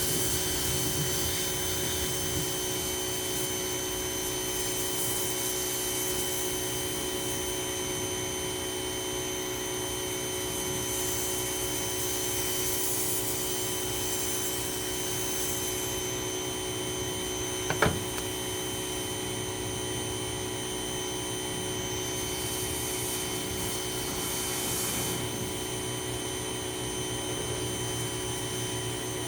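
Ryobi 2000 psi pressure washer running steadily, its motor humming under a hiss of spray that swells and fades. There is one sharp click about 18 seconds in.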